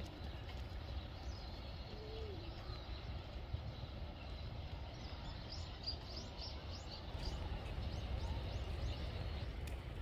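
A small bird giving a quick run of short, high chirps about three to four a second, starting about halfway through and stopping a few seconds later, over a steady low rumble of background noise.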